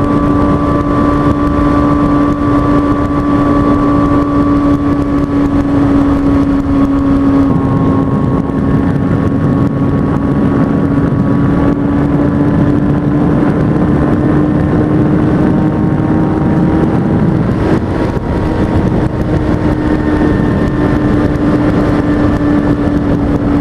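Kawasaki ZX-6R 636 inline-four sport-bike engine cruising at steady high revs, its pitch dipping slightly about seven seconds in and then slowly climbing, with wind rushing past the helmet microphone.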